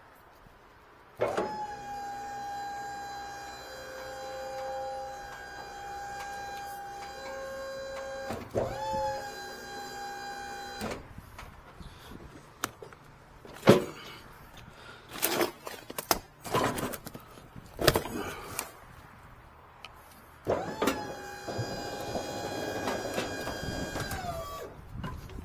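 Truck lift gate's electric hydraulic pump motor whining steadily, with a brief stop and restart partway through. This is followed by several sharp metal clanks and knocks, then the motor runs again for about four seconds and winds down in pitch near the end.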